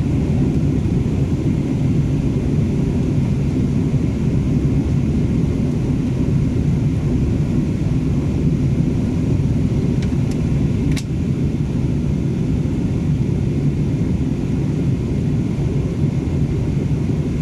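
Steady low roar of an Airbus A330 airliner in flight, heard inside the passenger cabin, with a single sharp click about eleven seconds in.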